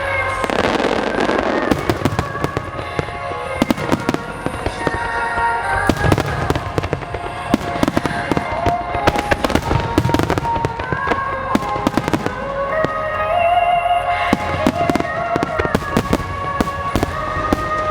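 Phoenix fireworks bursting in many irregular bangs and crackles, over music with long held notes.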